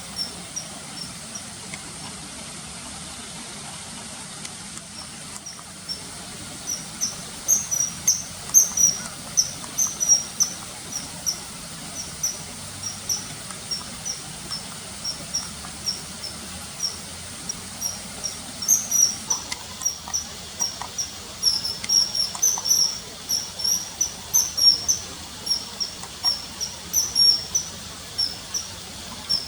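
Common kingfisher calling: short, high, sharp peeps, few at first, then coming in quick runs from about seven seconds in.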